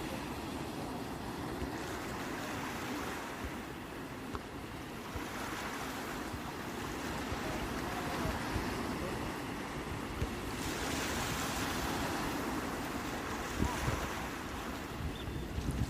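Sea waves surging and washing onto the shore in slow swells, with a larger wash coming in about ten seconds in.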